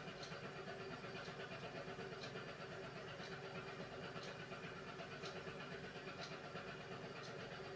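Beko WMY81283LMB2 washing machine running its hand wash programme: a steady, faint motor hum with a light tick about once a second.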